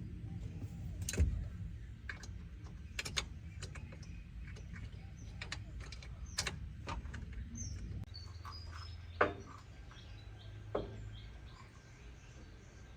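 Scattered light clicks and metallic knocks of hand-tool work, loudest about a second in and again near the middle, over a low steady hum. Small birds chirp faintly in the background.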